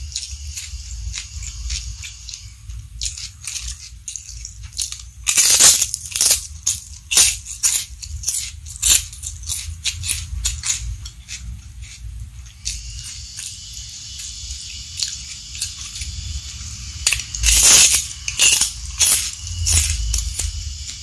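Close-miked crunchy chewing of raw vegetables and a fried cracker. There are two runs of sharp crunches, one starting about five seconds in and another near the end, over a steady low hum and faint hiss.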